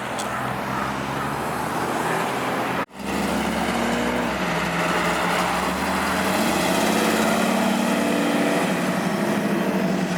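Car engine held at high revs during a burnout, a steady note over a hiss of spinning tyres. It breaks off for an instant about three seconds in.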